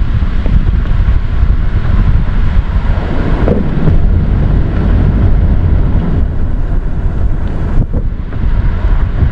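Wind buffeting the microphone: a loud, gusting low rumble with no distinct tones.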